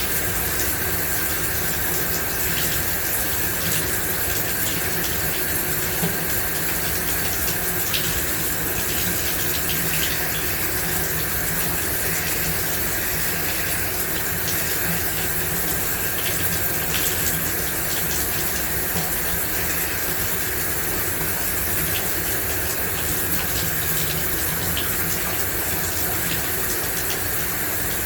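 Shower running steadily: an even hiss of water spray with small scattered splashes.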